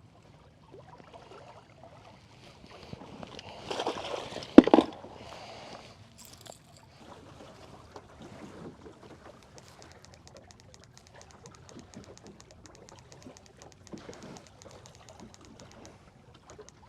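A single sharp knock about four and a half seconds in, amid handling and rustling, then a fast, even run of clicks lasting about five seconds from a fishing reel's clicker as line pays out.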